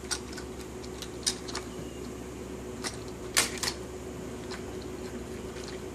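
Scattered light clicks and taps of plastic Lego train parts being handled, a few irregular knocks over a faint steady hum.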